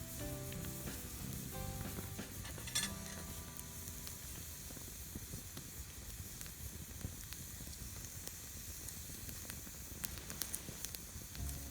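Wood campfire crackling and hissing steadily, with a sharp pop about three seconds in and a few more pops near the end.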